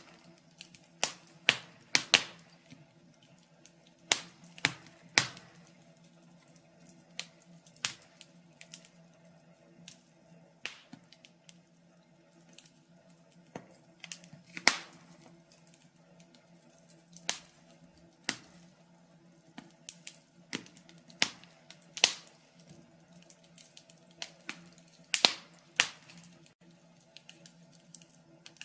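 Wood fire crackling: irregular sharp pops and snaps from burning logs, some in quick clusters, over a low steady background hum.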